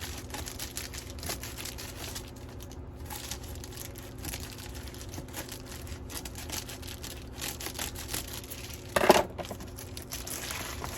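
Plastic mailer packaging crinkling and being torn at in quick rustling strokes while a hard-to-open package is worked open by hand. A brief louder sound comes about nine seconds in.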